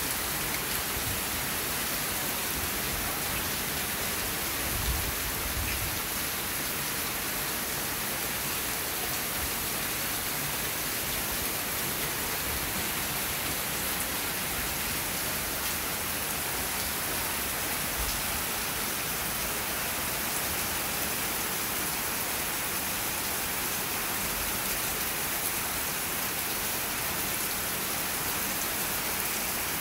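Heavy rain pouring down, a steady, even hiss of downpour that does not let up. A brief low bump about five seconds in.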